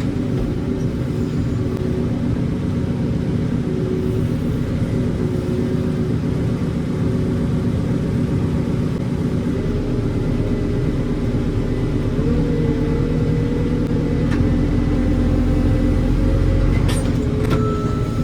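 Heavy diesel engine running steadily under load, its deep rumble growing about halfway through and its revs rising a little later. Near the end a reversing alarm starts beeping.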